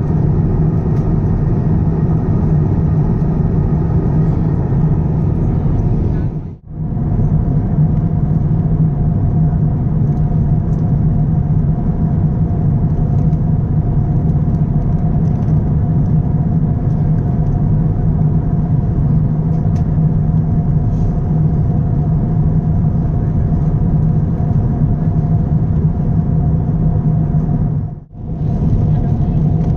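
Steady rumble of an Airbus A350-900 airliner, engine and airflow noise as heard inside the cabin, with a faint steady hum above it. The sound drops out briefly twice, once early and once near the end.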